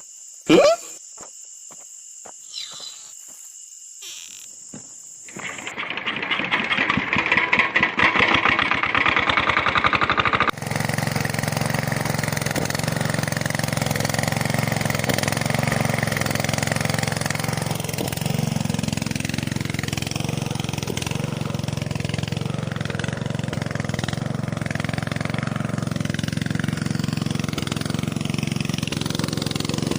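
Small engine of a homemade miniature flour mill: a sharp knock and a few light clicks, then about five seconds in a fast rattle builds up as it starts. From about ten seconds in it runs steadily with a low hum and a mechanical rattle.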